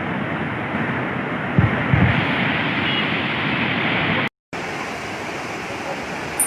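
Steady, loud rush of heavy rain and strong wind, with two low bumps about one and a half and two seconds in. The sound cuts out completely for a moment about four seconds in.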